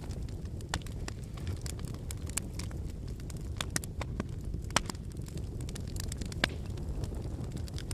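Wood fire burning: a steady low rumble of flames with irregular sharp crackles and pops from the burning logs, two louder pops a little under five and six and a half seconds in.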